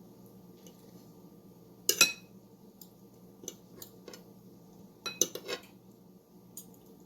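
Metal forks clinking and scraping against a dish while shredding cooked chicken thighs: a sharp clatter about two seconds in, a quick run of clinks around five seconds in, and scattered lighter taps.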